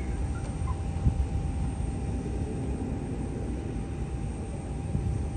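Steady low rumble of a distant airliner's jet engines, with a faint steady whine above it.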